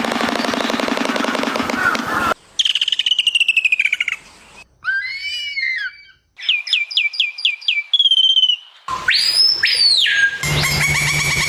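A string of different animal calls, mostly bird-like whistles and trills, joined with abrupt cuts. In turn come a fast rattling chatter, a falling trill, a few chirps, a run of falling whistles at about six a second, and a long whistle that rises then falls.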